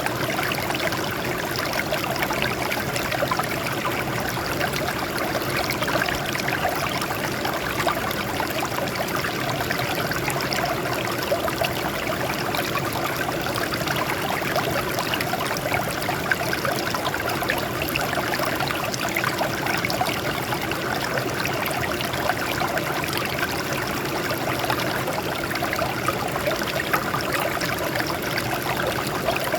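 Water flowing and trickling over rocks in a steady, unbroken stream.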